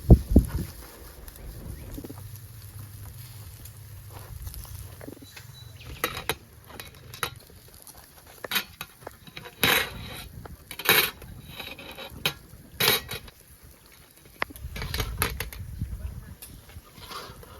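Metal utensils clinking against dishes: about eight sharp, separate clinks spread through the middle and later part. A heavy low thump at the very start is the loudest sound.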